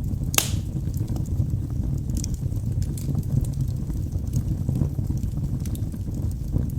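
Wood logs burning in a fireplace: a steady low rumble of flames with frequent small crackles and one louder pop about half a second in.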